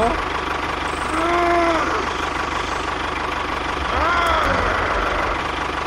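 A tractor engine idles with a steady, fast low chugging beat. Two short pitched calls, each rising then falling in pitch, sound over it about a second in and again about four seconds in.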